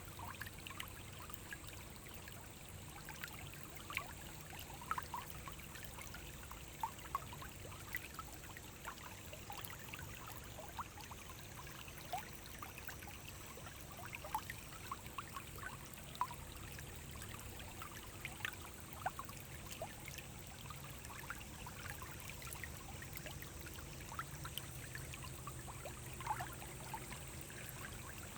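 Small forest stream babbling and trickling over stones, a steady wash of running water with many small splashes and gurgles.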